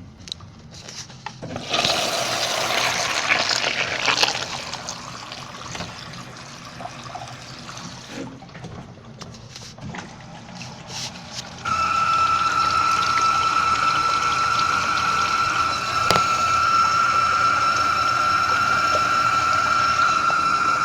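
Washing machine moving water: a loud burst of splashing water lasting a few seconds, then a few clicks and knocks, then about halfway through a steady whining rush of water starts suddenly and keeps on.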